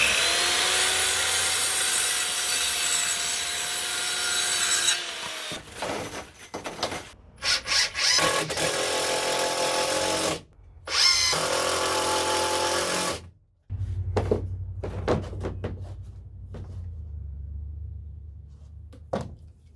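Power drill running in long bursts, driving screws into wood: one run of about five seconds, then three shorter runs. After that come a low hum and a few knocks.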